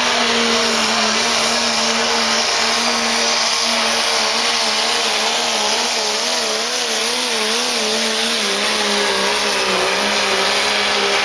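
A diesel pickup truck engine runs hard at high revs under load as it pulls a sled. It is a steady loud drone with turbo hiss, and its pitch wavers up and down from about halfway through.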